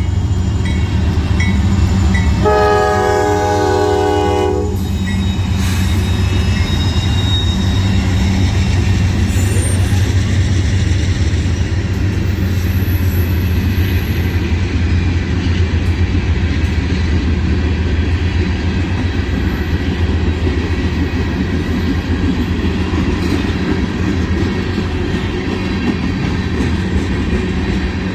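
Norfolk Southern diesel freight train passing close by: the locomotive sounds its horn in a blast from about two to five seconds in, then the freight cars roll past with a steady rumble.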